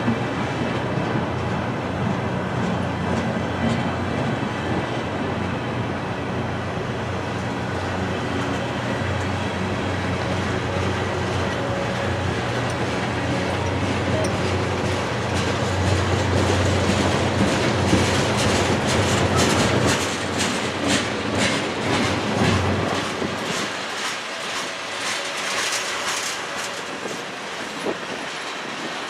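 Freight train cars, including loaded tank cars, rolling past close by: a steady rumble of steel wheels on rail, with a rapid clickety-clack of wheels over rail joints growing distinct in the second half. The deep part of the rumble drops away about three quarters of the way through.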